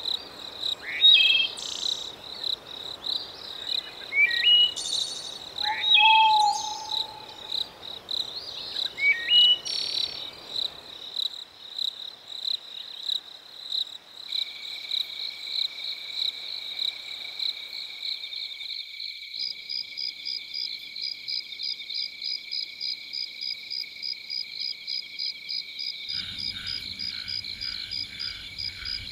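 A layered night-nature soundscape: a steady insect trill throughout, with birds whistling over a soft rushing hiss for the first ten seconds or so. The hiss and birds then drop away, a second insect trill joins, rapid high chirping follows, and frogs begin croaking near the end.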